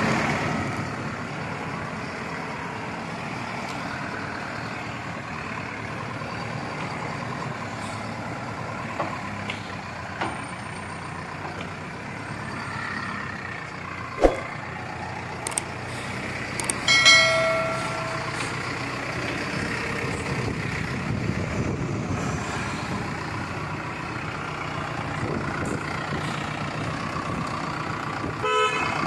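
Preet Hornett backhoe loader's diesel engine running steadily. There is one sharp knock about halfway through, and a brief high-pitched tone a few seconds after it.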